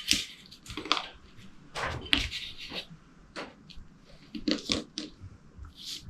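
Irregular light clicks, taps and scrapes of small metal carburettor parts and a hand tool being handled, as the air mixture screw is backed out of a two-stroke dirt bike carburettor.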